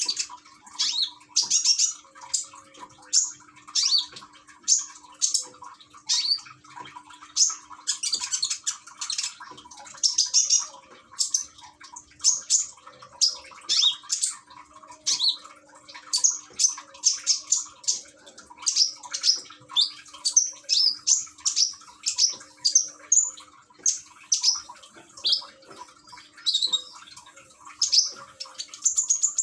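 Konin songbird chirping over and over in short, high, rapid phrases about once a second, over the steady trickle of running water from a small fountain. The trickle is used to calm the bird and prompt it to sing.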